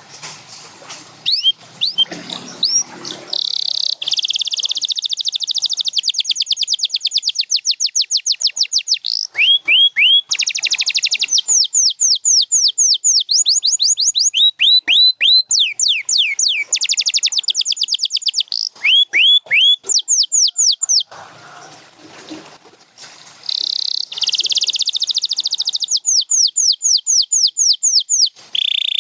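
Domestic canary singing: long, fast trills of repeated notes, runs of downward-sweeping whistled notes, and buzzy rolls, broken by a short pause a little past two-thirds of the way through.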